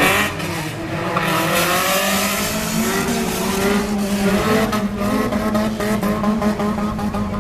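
Engines of old racing cars revving and running hard, their pitch rising and falling as they accelerate and lift off, over a steady low drone.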